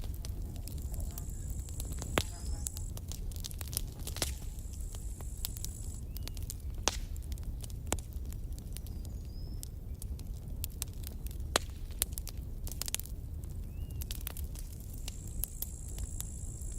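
Wood campfire crackling, with irregular sharp pops over a low steady rumble. A thin high hiss comes and goes three times.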